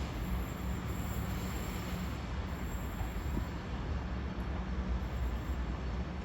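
Northern Class 195 diesel multiple unit pulling out of the station, its engine running with a steady low drone over the noise of the moving train.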